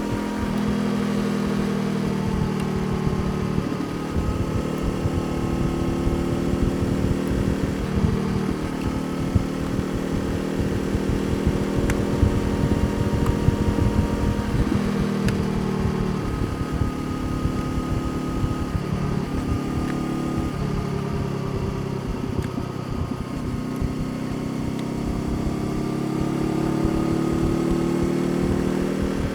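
Honda CBR500R's parallel-twin engine running on the move, its note rising and then dropping several times, with a slow climb near the end.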